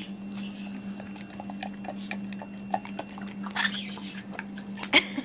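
A pet chewing food taken from the hand: soft, irregular clicks and crunches, with a sharper click near the end, over a steady low hum.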